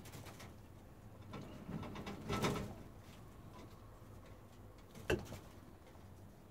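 Faint bird cooing in the background, with a brief rustle about two seconds in and a single sharp click about five seconds in.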